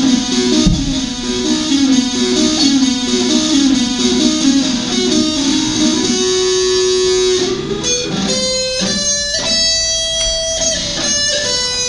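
Guitar solo: a run of quick notes, then a long held note about six seconds in, and sparser single notes near the end.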